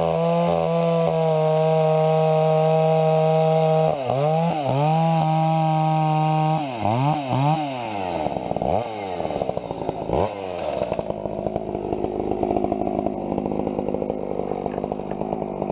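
Two-stroke chainsaw held at high revs with a steady pitch, dipping briefly about four seconds in. It is then blipped up and down several times and drops to a rough, lower idle about eleven seconds in.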